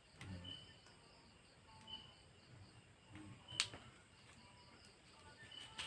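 Faint, quiet handling sounds with a few soft knocks and one sharp click about three and a half seconds in, over short high chirps that recur every second or two in the background.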